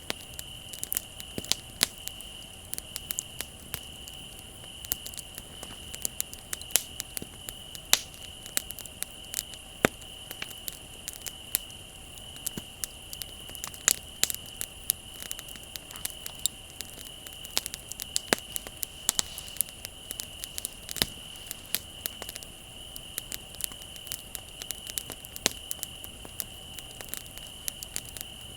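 Wood bonfire crackling, with frequent irregular sharp pops and snaps. Underneath is a steady, unbroken high trill of crickets.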